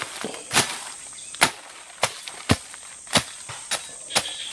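Hand tool chopping into the ground with about eight sharp strikes at uneven spacing, roughly two a second, digging a hole to plant a seedling.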